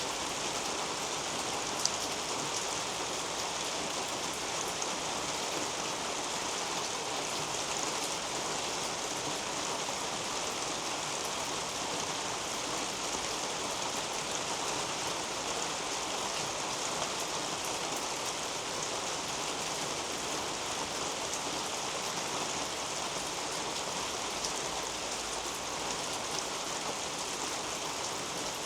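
Steady rain falling on garden foliage and soil, with individual drops tapping close by; one sharper tap about two seconds in.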